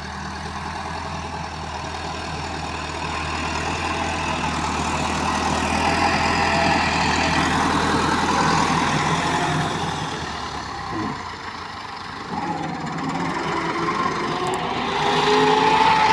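Tractor diesel engine running under work, growing louder over the first half, easing off, then its pitch rising near the end as it revs up.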